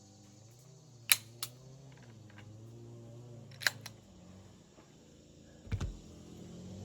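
A few sharp handling clicks and a dull thump near the end, over a low steady hum.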